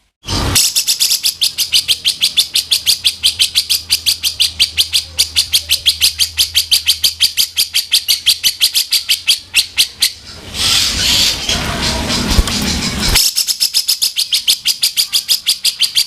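Cucak jenggot (grey-cheeked bulbul) giving harsh 'kasaran' calls: a fast rattling chatter of about six sharp notes a second, broken near the middle by a rough, scratchy stretch, then the rattle again.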